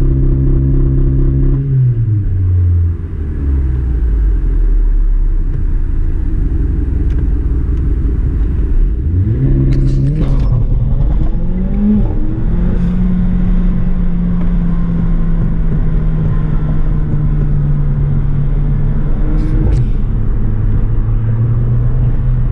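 Mercedes-Benz CLA45 AMG's turbocharged 2.0-litre four-cylinder, fitted with a Weistec intake, heard from inside the cabin on a test pull. The revs hold steady, fall about two seconds in, then climb steeply around ten seconds in through quick gear changes with a sharp click. They hold steady again before dropping near the end with another click.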